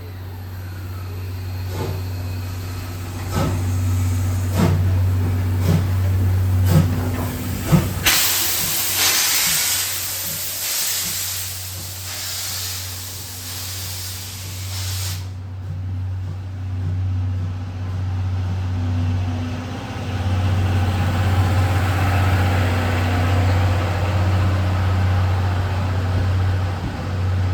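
C11 steam locomotive pulling away: its exhaust chuffs come faster and faster over the first eight seconds, then a loud hiss of steam lasts about seven seconds and cuts off suddenly. The coaches then roll past with a steady rumble.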